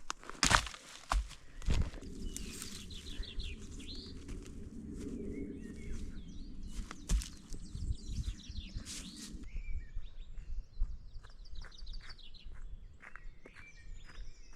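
Irregular crunching steps and sharp knocks, the loudest in the first two seconds, with small birds chirping and trilling in the background. A low steady rumble underneath stops about nine and a half seconds in.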